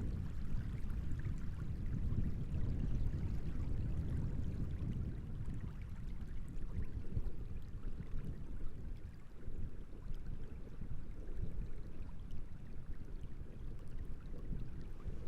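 Wind gusting over open water with a low, uneven rumble, and small waves lapping and splashing.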